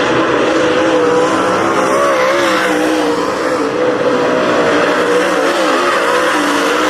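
A pack of dirt-track race cars running together at speed, several engines heard at once, their pitch wavering up and down as the drivers get on and off the throttle.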